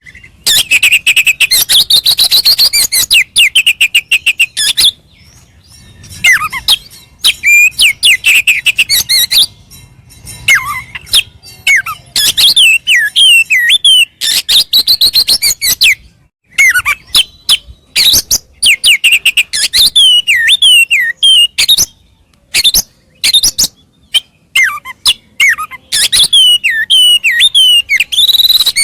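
Oriental magpie-robin (kacer) singing loudly in its full, excited fighting song: phrases of rapid repeated chattering notes and sweeping whistles, broken by several short pauses.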